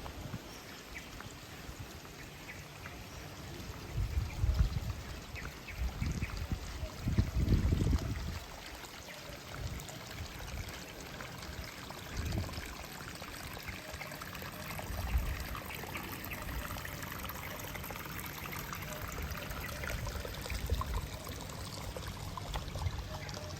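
Running water trickling and pouring steadily, like a small stream or water feature. Several low rumbles come through between about four and eight seconds in, with smaller ones later.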